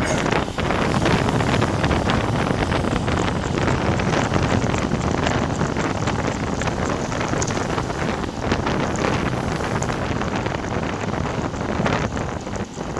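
Loud wind buffeting the microphone of a bike-mounted camera on a moving road bike: a steady, dense rushing roar with no let-up.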